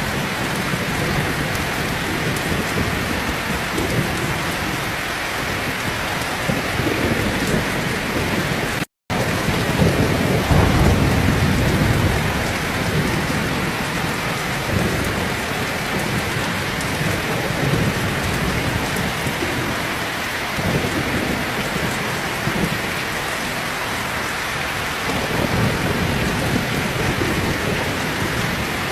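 Heavy rain falling steadily, with thunder rumbling low underneath, swelling and fading several times; the loudest rumble comes just after the sound cuts out for a split second about nine seconds in.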